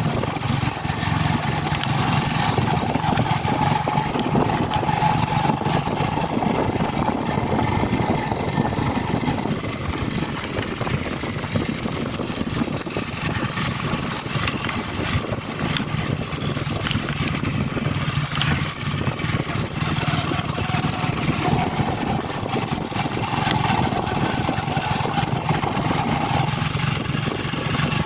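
A vehicle's engine running steadily on the move, with road and wind noise. The engine note drops back about ten seconds in and comes up again a little past the middle.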